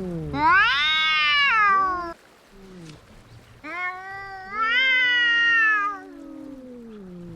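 Cats caterwauling in a fight: two long, loud yowls that rise and then fall in pitch, with a second, lower wail sliding downward beneath them.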